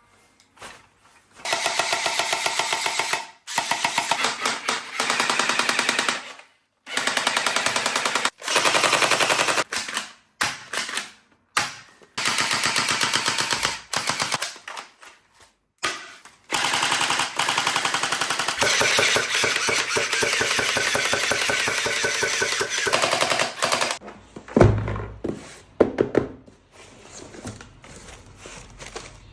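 Toy machine guns firing rapid rattling bursts of one to three seconds each, with short pauses between them. The firing stops about 24 seconds in, followed by a few knocks and handling noises.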